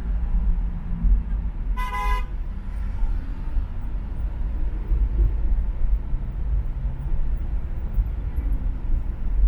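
A car horn sounding once, a brief toot about two seconds in, over a steady low rumble of road traffic on an expressway.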